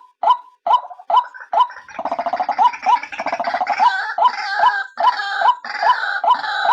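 Female white-breasted waterhen lure call: short calls repeated steadily, about two to three a second. About two seconds in, a fast gurgling chatter joins the calls and carries on under them.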